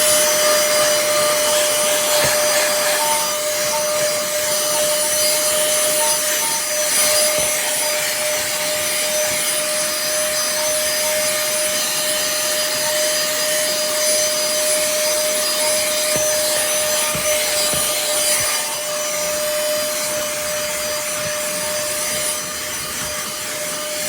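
Cordless handheld vacuum cleaner running steadily with a high, even motor whine over the hiss of rushing air, its nozzle scraping and rubbing over the surface being cleaned.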